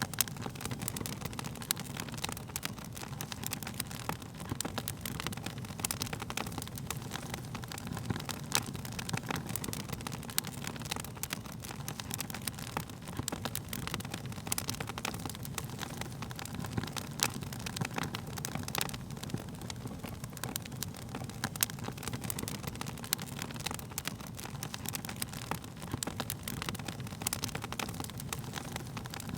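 Wood fire crackling: frequent, irregular sharp pops and snaps of burning wood over a steady low rumble of the flames.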